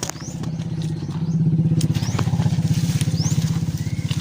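A small engine running steadily nearby with a fast, even beat, growing louder about a second in. A few short high rising chirps sound over it.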